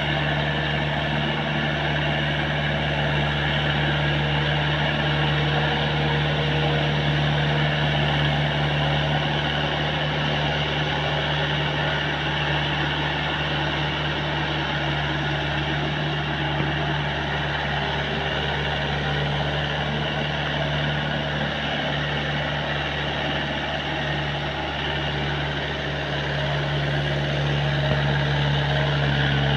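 Tractor engine running at a steady speed, a constant even drone.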